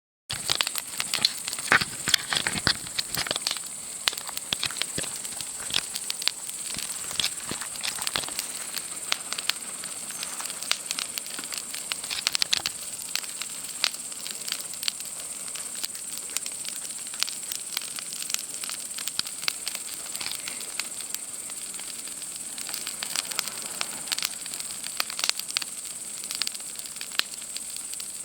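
Wood campfire crackling, with irregular sharp snaps and pops, thickest in the first few seconds, over a steady high trill of night insects such as cicadas.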